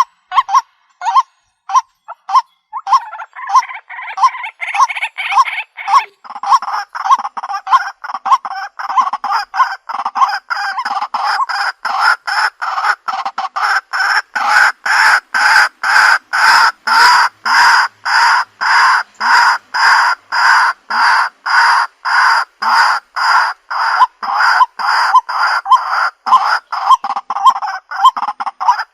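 White-breasted waterhen calling a harsh 'kwak' over and over, about two to three calls a second, from a recording made for luring the birds. From about three seconds in, a denser layer of calling joins and builds, and it is at its fullest through the middle.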